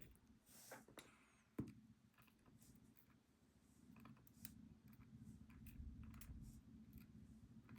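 Faint clicks and taps of small metal lock parts and tools being handled while a pin-tumbler lock is taken apart, with one sharper click about one and a half seconds in.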